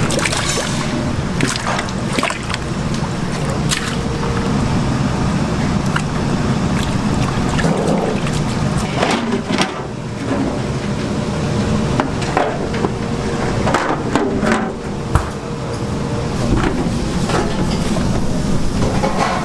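Restaurant kitchen noise: a steady low rumble with scattered knocks and clatter throughout.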